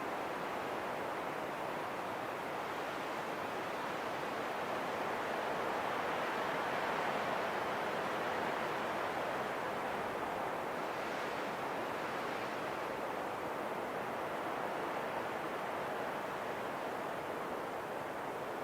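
Steady rushing wind, swelling slightly partway through and easing off again.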